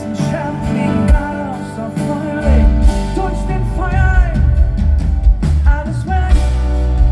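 A live pop-rock band playing, with drums, bass and guitar under a singing voice.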